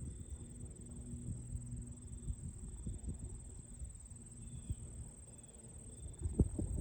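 Outdoor lakeside ambience: a steady, very high-pitched insect trill runs throughout over a low rumble of wind on the microphone, with a few soft knocks near the end.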